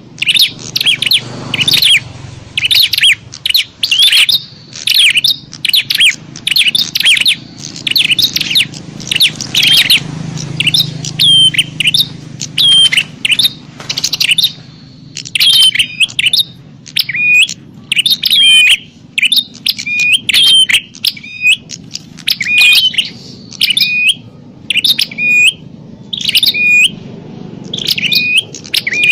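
Prenjak (prinia) songbirds giving noisy, agitated fighting calls: a dense, unbroken run of sharp, high chirps repeated several times a second, the kind of call used to lure wild prenjak. A faint low hum lies underneath.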